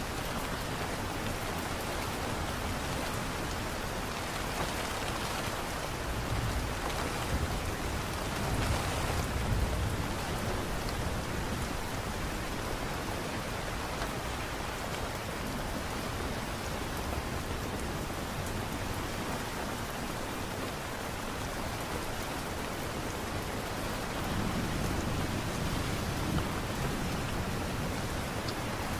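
Light rain falling steadily in an even hiss. Low rumbles swell up under it about six to ten seconds in and again near the end.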